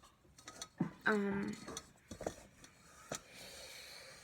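Cornstarch-and-water slime being squeezed and handled, giving a few soft clicks. A short, steady hummed voice sound comes about a second in.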